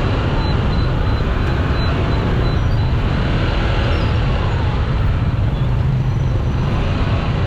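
Dense city motor traffic heard from a moving motorcycle: a steady wash of engine and road noise with a heavy low rumble, and faint rising and falling engine notes from vehicles close by.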